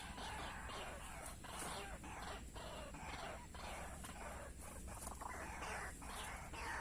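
White-breasted waterhen (ruak-ruak) calling: harsh, rasping calls repeated about once a second.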